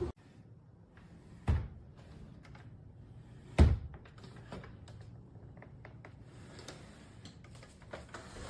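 Knocks and clicks from handling a Shark Navigator Lift-Away upright vacuum: two sharp thumps about two seconds apart, then several lighter clicks and taps.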